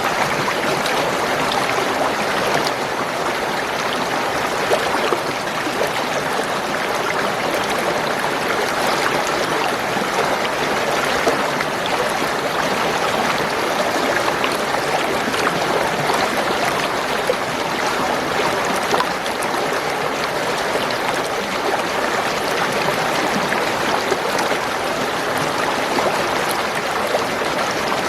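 Spring water gurgling and trickling in a steady, unbroken flow, dotted with many small splashes and pops.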